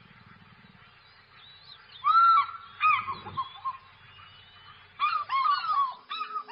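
Bird calls: a loud call about two seconds in, another just before three seconds, and a quick run of calls from about five seconds, over the faint chirping of other birds.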